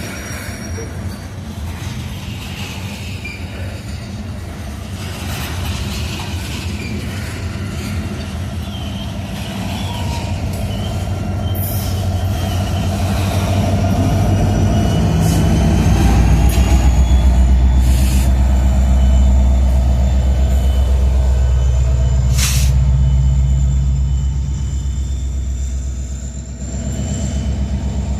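Coal train's freight cars rolling past on the rails, with sharp wheel clicks and a thin, high wheel squeal. About halfway through, a deep, heavy rumble swells up and holds, dipping near the end.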